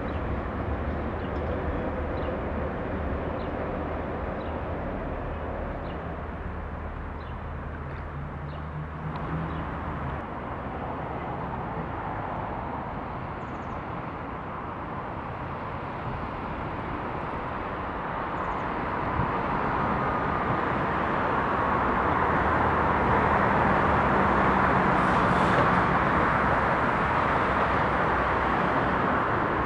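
Electric trains passing. First a regional electric multiple unit runs across a bridge with a steady low hum; about a third of the way in this gives way to a second electric train approaching along the tracks, its rumble and rail noise growing louder toward the end.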